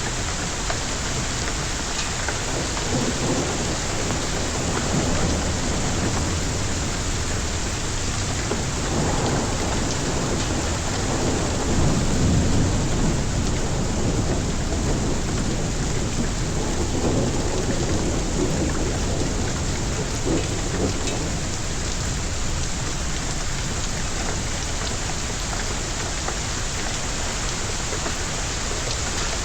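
Heavy rain pouring steadily in a thunderstorm, with rolling thunder rumbling up several times, longest and loudest near the middle.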